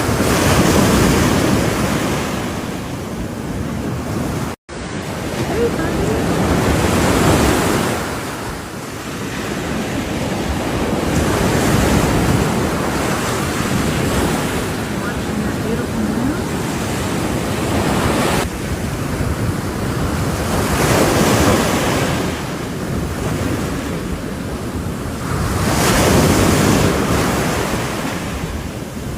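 Ocean waves breaking on the shore, coming in surges that swell and fade about every four to five seconds, with wind on the microphone. The sound drops out for a moment about four and a half seconds in.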